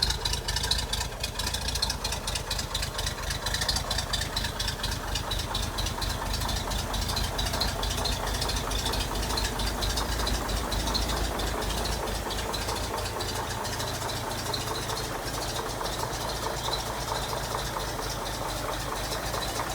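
1935 Chevrolet half-ton pickup's inline-six engine running steadily at idle with a fast, even beat.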